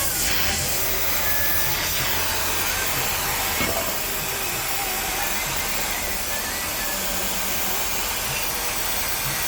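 A steady hiss with a few faint, brief whistling tones above it.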